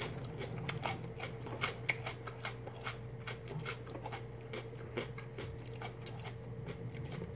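Raw carrot sticks being chewed close to the microphone: a quick, irregular run of crisp crunches, several a second, over a faint steady hum.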